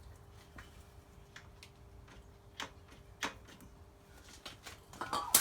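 Scattered light clicks and knocks, spaced a second or so apart, with a louder clatter near the end, over a faint steady hum.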